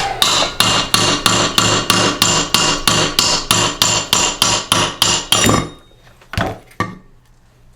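Hammer blows on a rusted, stuck part of a Briggs & Stratton small engine, metal on metal with a ringing tone: a fast steady run of about two dozen strikes, roughly four a second, for five and a half seconds, then two more single blows.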